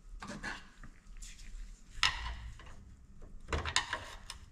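Metal parts of a Detroit Diesel DW-LS governor clinking and scraping as they are handled. There are a few separate knocks, the sharpest about two seconds in and another cluster near the end.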